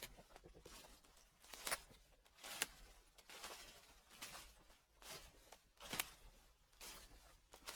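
Footsteps crunching through dry fallen leaves at a slow, even walk, about one crackling step a second.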